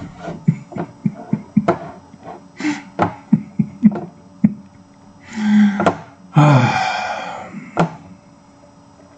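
A series of irregular knocks and thumps, with two longer, rougher sounds about halfway through.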